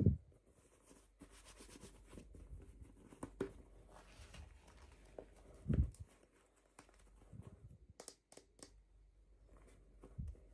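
Hands handling toy packaging and small plastic pieces: scattered light clicks and soft rustling, with three dull low thumps at the start, about six seconds in and near the end.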